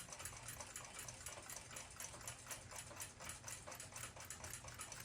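Faint, fast, even ticking, several ticks a second, over a low steady hum.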